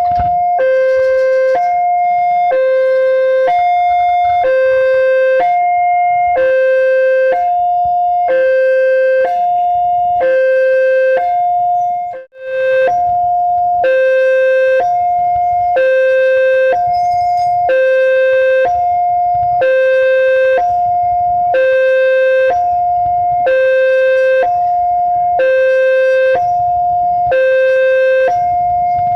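Railway level-crossing warning alarm sounding its two-tone electronic signal, a higher and a lower note alternating about once a second, the warning that a train is approaching. It breaks off for a moment about twelve seconds in.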